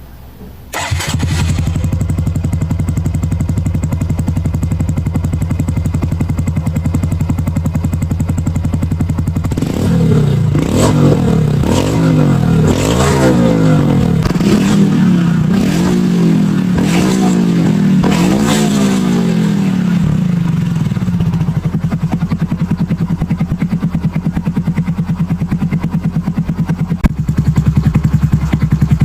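Honda Super Cub's single-cylinder four-stroke engine through a BEAMS aftermarket muffler: it comes in abruptly about a second in and runs at a steady idle. Partway through, the throttle is blipped repeatedly, the pitch rising and falling with each blip, before it settles back to idle.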